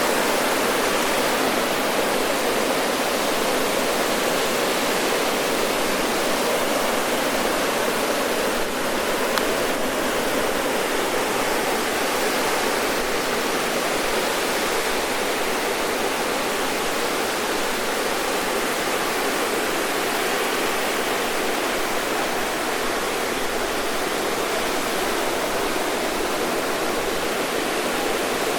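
Ocean surf breaking on a sandy beach: a continuous, dense wash of surf noise with no distinct single wave crashes standing out.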